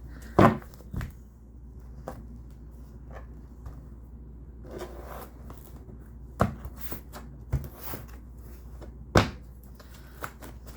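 A tarot deck being shuffled and handled, with a few scattered sharp taps and clicks; the loudest come about half a second in and near nine seconds.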